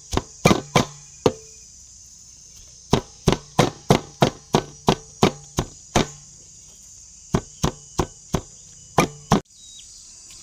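Knife chopping on a cutting board in runs of sharp strokes, about three a second, with short pauses between runs. A steady high chirring of insects runs underneath.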